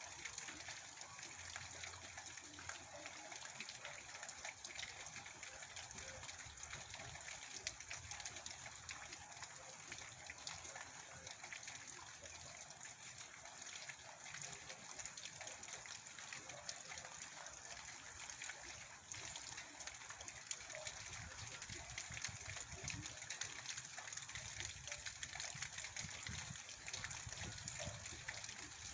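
Heavy rain: a steady hiss of falling and running water, speckled with many small drop impacts. From about two-thirds through, a low gusting rumble of wind comes and goes beneath it.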